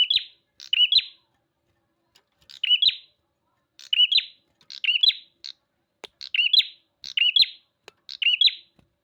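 A prinia (prenjak) singing persistently: about eight short, sharp chirping phrases in nine seconds, each repeated with brief pauses between.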